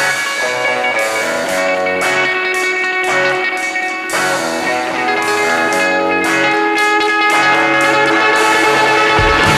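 Band music: a guitar playing a picked and strummed instrumental passage.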